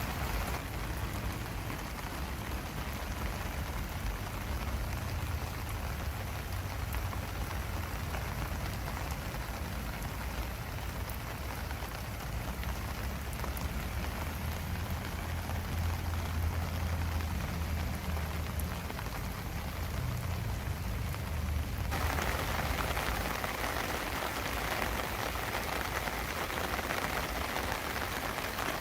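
Steady rain falling in an even hiss, with a low rumble underneath. About 22 seconds in, the rain suddenly turns louder and brighter and stays that way.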